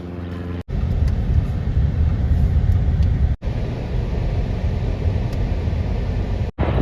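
Aircraft engines rumbling, low and noisy, in short clips joined by abrupt cuts about half a second in and about three and a half seconds in.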